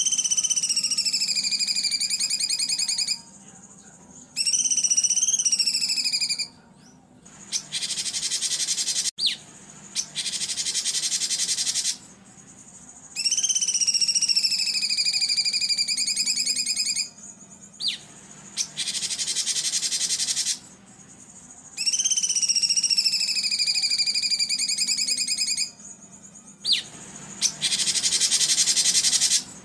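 Recorded songbird song of the kind played to train caged birds: loud, pulsing, high whistled phrases alternating with harsh buzzy rattles. Each phrase lasts two to four seconds, with short gaps between them.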